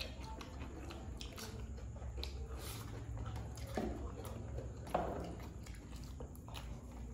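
Two people eating fried rice by hand at close range: chewing and wet mouth sounds with many small scattered clicks over a low steady hum, and one sharper knock about five seconds in.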